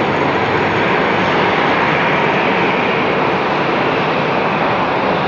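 Airliner's engines running loud and steady, an even rushing noise without any rise or fall in pitch.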